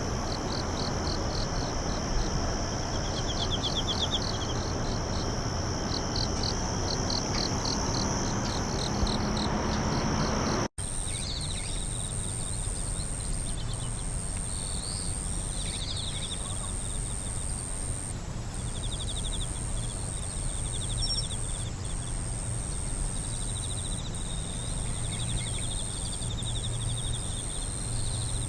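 Crickets and other singing insects in chorus: evenly pulsed chirp trains and a steady high trill over a constant hiss. The sound cuts out for an instant about ten seconds in, then goes on with a thinner, higher steady whine and slower chirp trains.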